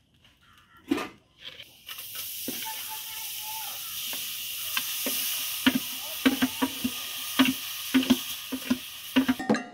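Chopped food hitting hot oil in an aluminium pot over a wood fire and sizzling steadily, the hiss setting in about two seconds in. Over it come repeated sharp clicks and scrapes of metal on metal as the food is scraped off a plate into the pot.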